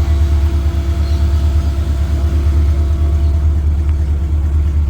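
Car engine idling, a steady low rumble with an even hum above it.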